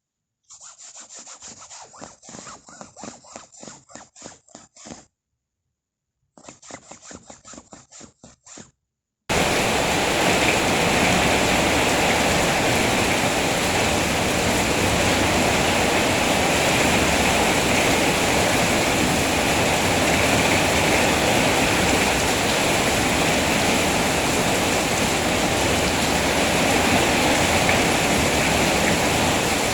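Steady heavy rain, an even rushing hiss that starts abruptly about nine seconds in. Before it comes a quick run of short scraping strokes, broken by a gap of about a second.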